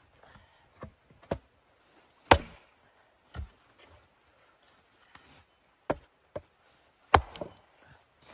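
Wood being chopped: about seven sharp blows at uneven intervals, the loudest about two seconds in and another strong one near the end.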